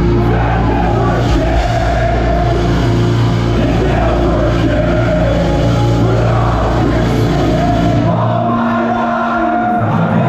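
Metalcore band playing live at full volume, with distorted guitars, drums and vocals. About eight seconds in, the deepest bass drops out while the guitars and voices carry on.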